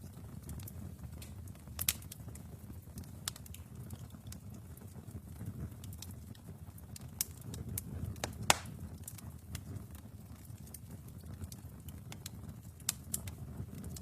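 Wood fire burning in a fireplace: a low, steady rumble of flames with scattered sharp crackles and pops, the loudest about eight and a half seconds in.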